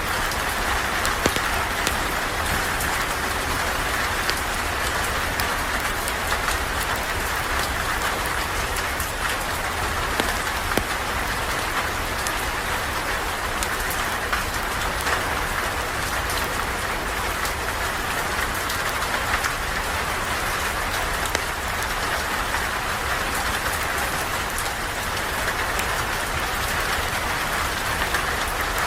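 Steady rain falling, with scattered small ticks through it and a steady low rumble underneath.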